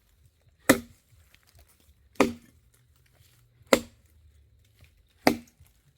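Chopping into a thick, dry jackfruit log by hand, four blows about a second and a half apart, each with a short ringing after the impact.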